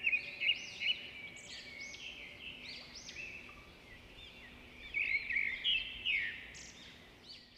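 Many small birds chirping and trilling at once, with louder runs of calls at the start and again about five seconds in.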